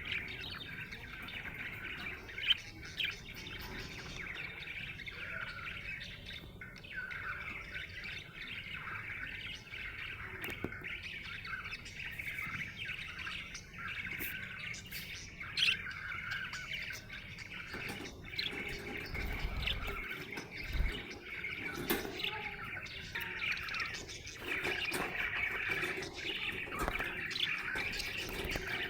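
Budgerigar chirping and warbling in a continuous chatter, with short sharp chirps standing out every few seconds.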